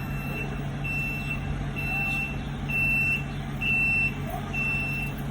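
Tractor-trailer's reversing alarm beeping, a high single tone about once a second, six beeps in all, over the steady low running of the truck's diesel engine while the truck backs up.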